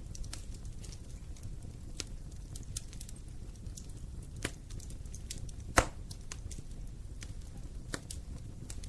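Wood fire burning in a fireplace, crackling with scattered sharp pops at irregular intervals, the loudest about six seconds in, over a low steady rumble of the flames.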